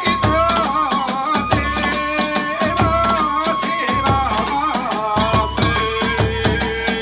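Hiroshima kagura hayashi ensemble playing fast: a bamboo flute holds and bends its notes over quick, dense drum beats and clashing hand cymbals, with a deep big drum underneath.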